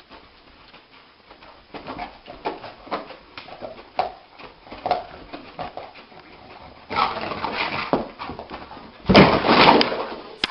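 A dog whimpering in a run of short, repeated cries, about two a second, followed by two louder, rougher bursts of sound near the end, the last the loudest.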